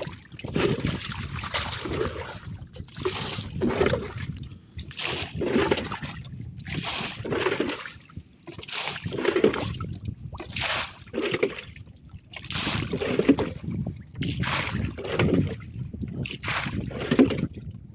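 Water splashing in a regular rhythm, in close pairs of splashes about every two seconds, as from work at a small boat's side.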